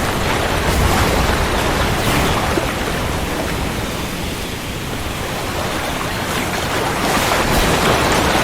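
Heavy rain falling steadily with deep, rolling thunder rumbling underneath; the rumble eases around the middle and builds again near the end.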